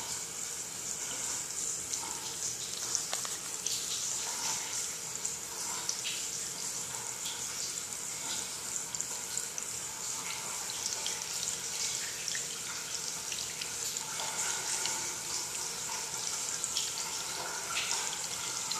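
Shower water spraying onto a glass shower door and its track: a steady hiss of running water with small splashes and drips.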